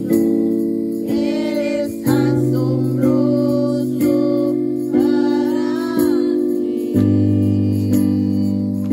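A worship song is sung over instrumental accompaniment that strikes a chord about once a second. The chord changes about two seconds in and again near the end.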